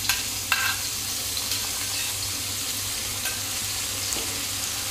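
Finely chopped ginger, garlic and green chillies sizzling in hot oil in a kadhai, with two sharp metal clinks from the ladle near the start.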